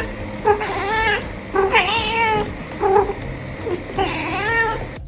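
Domestic cat meowing repeatedly: about four drawn-out calls that rise and fall in pitch, one of them short.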